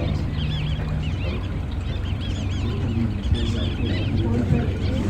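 Waterbirds calling again and again with short, high notes that rise and fall in quick runs, over a steady low engine hum.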